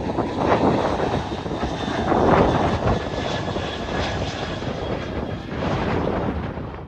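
Airplane engines passing, a loud steady rushing noise with a faint high whine, cutting off abruptly at the end.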